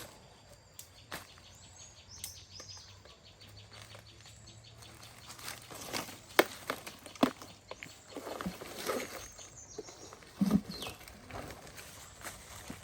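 Scattered sharp clicks and knocks of hand work, with a run of fine rapid ticking in the first few seconds and a dull thump about ten seconds in.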